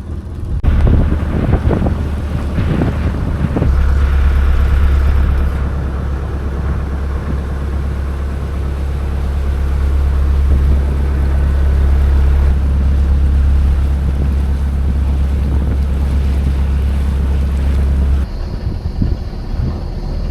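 Heavy wind rumbling over the microphone on a moving motorboat, a steady low roar that changes abruptly twice, at edits.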